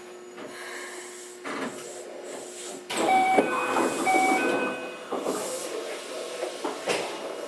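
Inside a Keikyu 600 series electric train car: a steady hum with a light hiss. About three seconds in, a louder burst of noise comes in, with a short electronic tone sounding twice about a second apart, before it settles back to a steady running sound.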